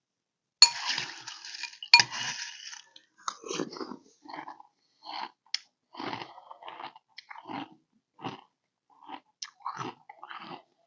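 Crunchy frosted flake cereal with honey nut clusters being bitten and chewed: two loud crunches about a second apart near the start, then steady chewing about twice a second.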